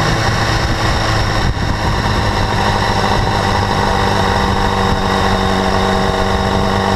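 BMW S1000RR's inline-four engine running steadily, with a high-frequency ticking that began after the bike was new and has grown louder by about 4500 km. The owner asks whether it comes from valve clearance or the exhaust interference-pipe flaps.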